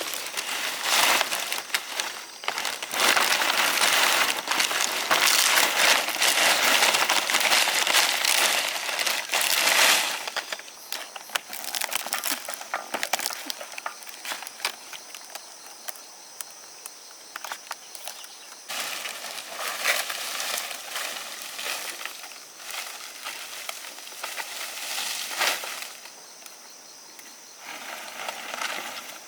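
Dry rice stalks crackling and rustling as they are handled during the harvest, in two long busy spells with a quieter stretch between.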